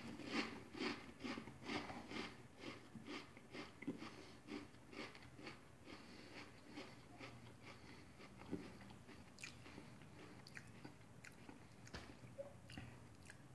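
A person chewing a mouthful of Pringles Xtra Fiery Sweet BBQ stacked potato crisps, close to the microphone: crisp crunches about twice a second, becoming softer and sparser about halfway through as the crisps break down.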